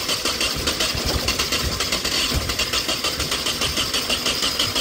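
Newly built Nissan KA24DET turbo four-cylinder cranking on the starter with a steady, rapid pulse, trying to fire but not settling into an idle. The builder wonders whether the throttle position sensor or idle air control is to blame.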